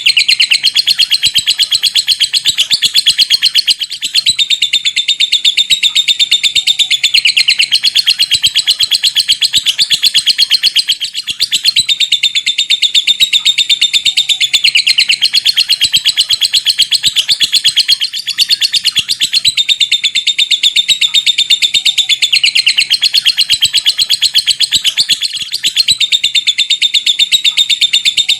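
Lovebird chattering in a long, continuous 'ngekek' trill: a fast, shrill run of rapid notes, loud, broken only by brief pauses about every seven seconds.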